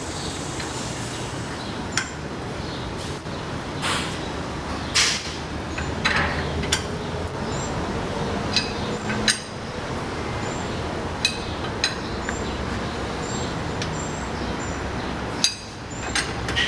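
Lug wrench on a car's lug nuts: scattered sharp metal clicks and knocks, about ten of them, as the wrench is fitted onto the nuts and they are broken loose. A steady background hum runs under them.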